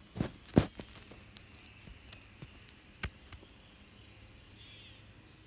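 A few short, sharp taps and clicks, the loudest about half a second in and two more around three seconds in, over a faint steady outdoor background.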